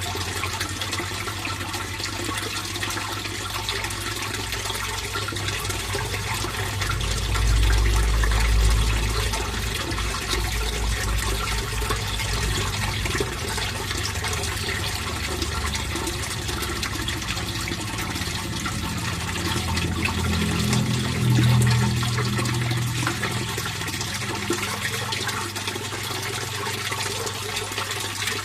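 Water flowing steadily into a fish pond, a constant splashing rush. Two deeper low swells rise and fade, one about a quarter of the way in and one about three quarters through.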